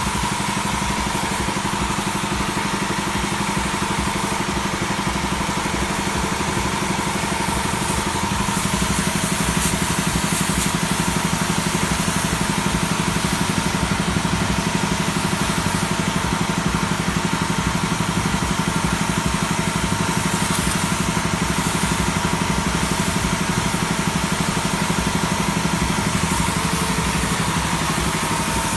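Sanchin high-pressure washer machine running steadily with an even motor drone and a constant whine; it gets louder about eight seconds in.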